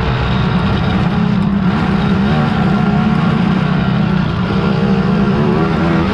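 Engines of racing big-bore quads (ATVs) running hard, with the pitch rising and falling as they work the throttle.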